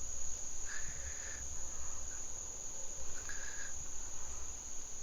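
Insects in forest undergrowth giving a steady, unbroken high-pitched drone, with a few faint short calls in the background.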